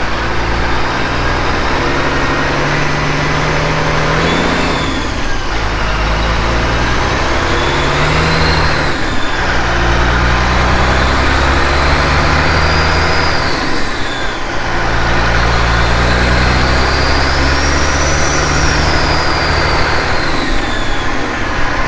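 Diesel semi truck accelerating through its gears: the engine climbs in pitch, drops at each shift about every four to five seconds, and climbs again.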